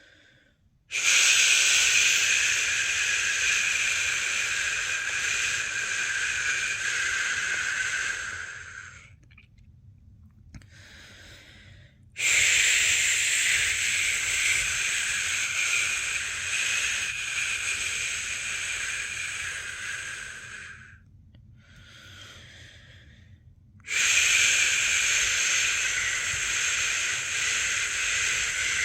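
A person's long 'shhh' shushing, the sound used to soothe a newborn to sleep, made three times, each held for about eight seconds, with quiet breaths in the short gaps between.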